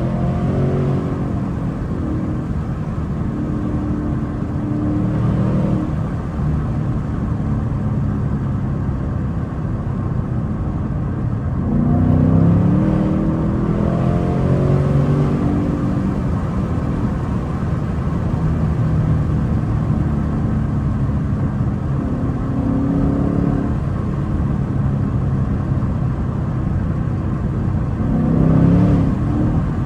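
A 2024 Ford Mustang GT's 5.0-litre Coyote V8, heard from inside the cabin while driving, with Steeda high-flow air filters fitted and the carbon traps removed. It runs mostly at a steady cruise, and its pitch rises under acceleration about 12 seconds in and again near the end.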